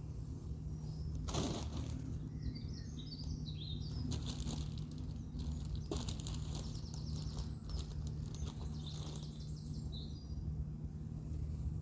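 A small bird chirping in short high bursts over a steady low hum, with a few sharp knocks in between.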